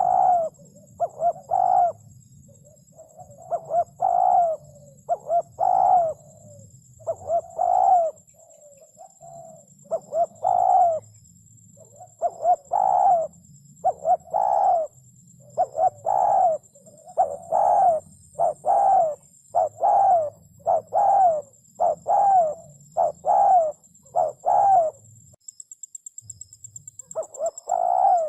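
Spotted dove cooing: a long run of short coos in quick groups, with a brief pause near the end, over a faint steady high-pitched whine.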